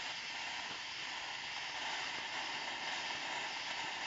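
Small fountain-type firework hissing steadily as it sprays sparks.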